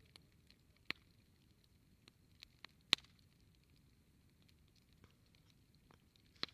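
Wood campfire crackling: scattered sharp pops and snaps over a faint background, the loudest about three seconds in.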